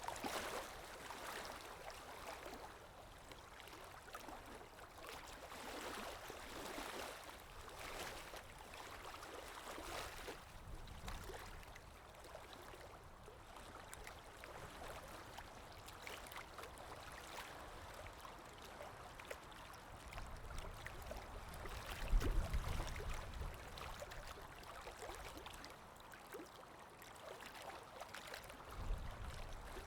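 Calm sea waves washing in and drawing back, a hissing wash that swells and fades every few seconds. A deeper, louder surge comes about two-thirds of the way in, and a smaller one near the end.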